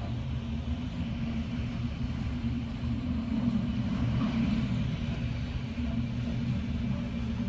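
Hurricane-force wind buffeting the microphone: a deep, unsteady rumble that swells and eases.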